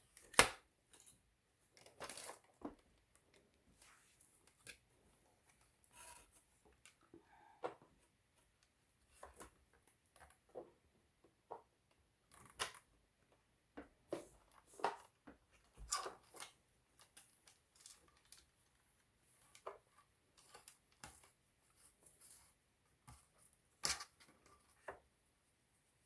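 Irregular small clicks, taps and rustles of hands handling cord, cables and plastic parts inside an opened sewing machine. The sharpest click comes just after the start, with another near the end.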